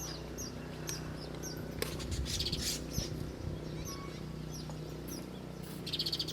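Small songbird chirping: short, high, downslurred notes repeated every half second or so, with two brief buzzy trills, one about two and a half seconds in and one near the end.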